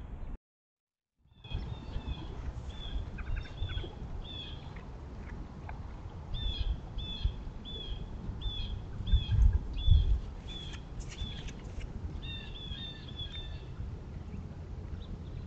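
A bird calling a rapid series of short, high chirps, a couple a second, in runs through the clip over a steady low rumble. A few louder low thumps come about nine to ten seconds in. There is a second of silence near the start.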